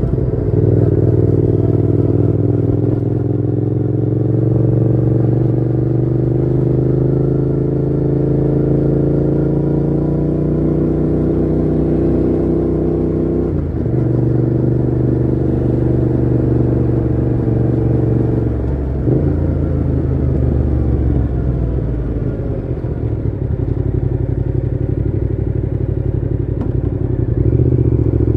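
Yamaha MT-07's parallel-twin engine running under way through a Mivv GP Pro full exhaust with its dB killer fitted. The engine note climbs slowly and drops at a shift about 14 s in and again near 19 s, then eases off before rising again near the end.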